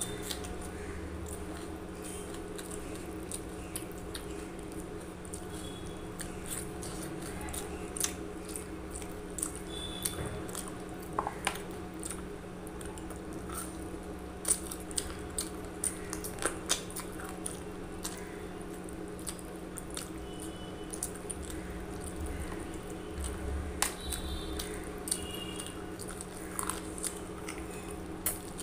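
Person chewing mouthfuls of rice and curry eaten by hand, with scattered wet mouth smacks and clicks, over a steady background hum.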